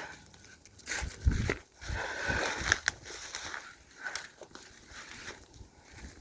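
Footsteps crunching irregularly in snow.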